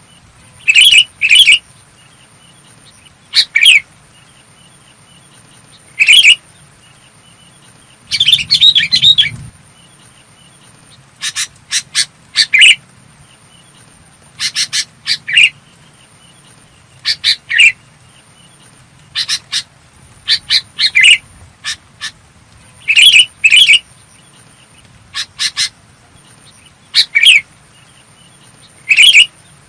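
Sooty-headed bulbul calling: short, clear notes repeated in quick groups of two or three every second or two, with one longer, rougher burst of calls about eight seconds in.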